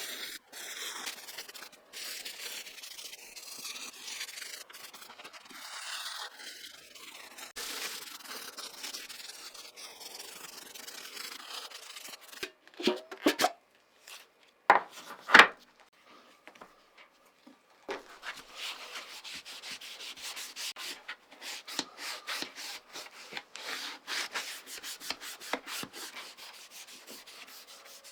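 Hand rubbing strokes on a wooden surface, like sanding or rubbing in a finish, with a few loud knocks about halfway through, then faster, denser strokes.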